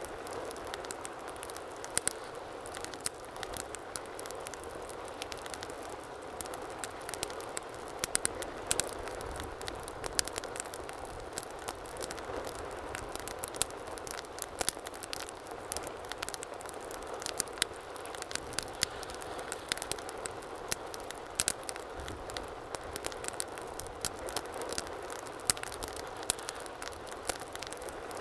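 Wood fire burning in a fireplace: a steady low rush of flames with many sharp crackles and pops, several a second and irregular.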